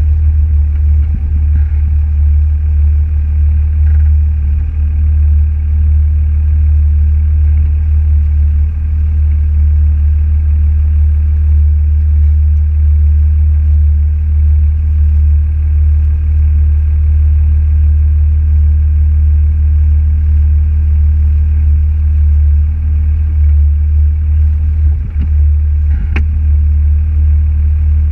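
Steady low drone of a car driving: engine and road noise, with one brief click near the end.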